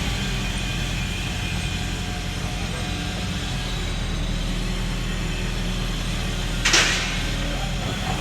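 Heavy diesel earthmoving machinery running steadily with a deep drone, with one short, sharp hiss of air or hydraulics about two-thirds of the way through.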